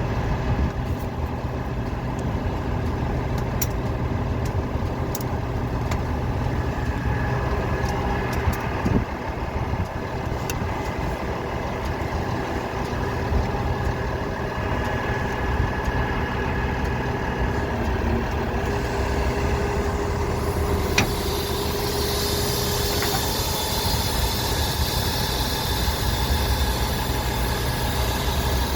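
Truck engine idling steadily, with a few short clicks; a steady hiss joins in about twenty seconds in.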